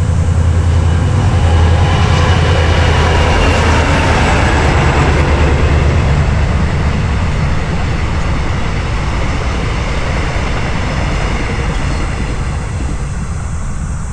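Train passing close by with a loud, steady rumble, slowly fading toward the end.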